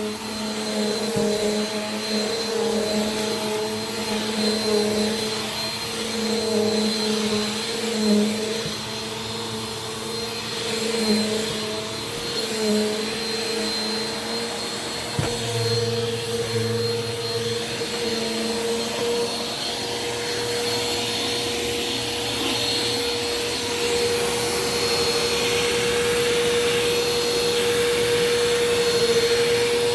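Bissell PowerForce Compact Turbo upright vacuum running on carpet, a steady motor whine over rushing air. Its pitch wavers for the first two-thirds as it is worked over the carpet, then holds steady.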